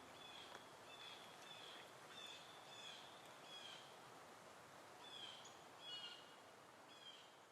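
Faint outdoor ambience with a bird giving short, high chirps over and over, about one every half second to second, with a pause of a little over a second near the middle, over a soft steady hiss.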